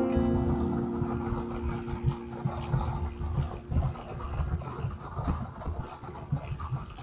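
Motorcycle on the move: engine and wind rumbling unevenly on the microphone, while background music fades out over the first couple of seconds.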